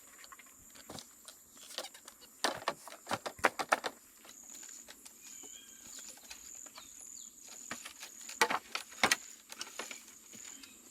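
Irregular knocks and taps, with a short cluster early and two sharp loud ones near the end. A high, thin chirp repeats about twice a second behind them from about four seconds in.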